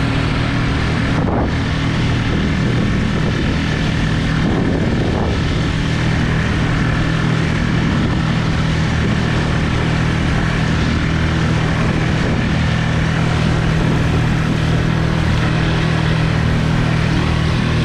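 Tohatsu 6 hp outboard motor running steadily at speed, pushing a kayak/skiff along.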